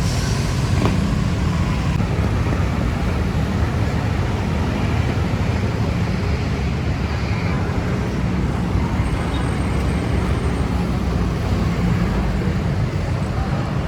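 Steady city road traffic noise: engines and tyres of passing motor vehicles, with a constant low rumble.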